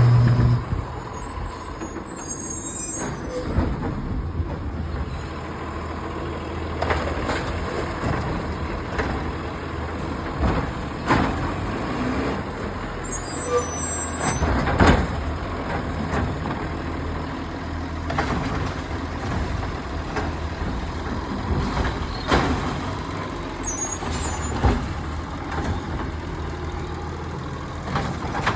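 Garbage truck engine running steadily, with three short air hisses and scattered knocks and clanks.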